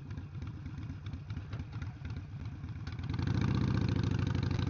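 Harley-Davidson Sportster 883's air-cooled V-twin engine running with a steady, rapid firing beat. About three seconds in it gets clearly louder and stays that way.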